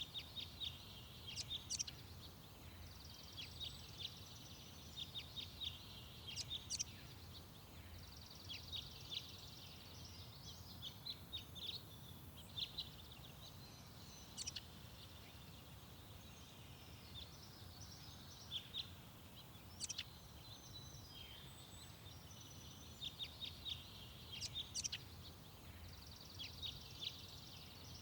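Small garden songbirds singing in short phrases of quick chirps and trills, one phrase every second or two, over a steady low background rumble.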